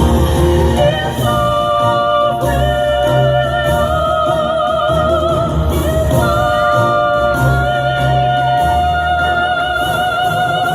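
Two sopranos holding long high notes with wide vibrato in two-part harmony over a pop backing track with a pulsing bass, the notes changing about every one to two seconds.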